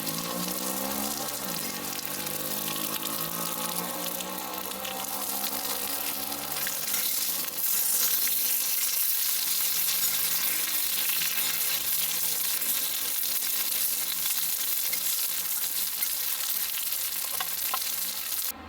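Food sizzling in a pan, a steady crackling hiss. Over the first few seconds a low humming tone bends up and down in pitch beneath it. The sound cuts off suddenly near the end.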